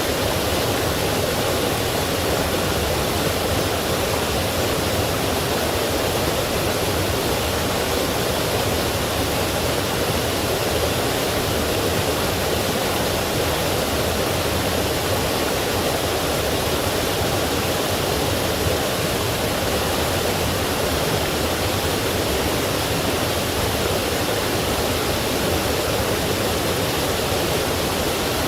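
Forest stream rushing over rocks, a steady full rush of water with no breaks.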